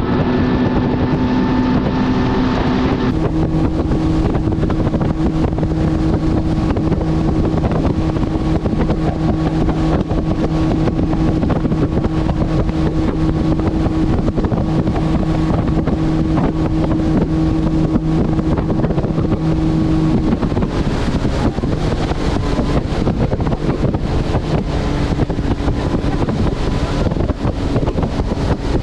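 Boat's outboard motor running at speed under heavy wind noise on the microphone. The engine note shifts a few seconds in, holds steady, then changes and grows less even about two-thirds of the way through.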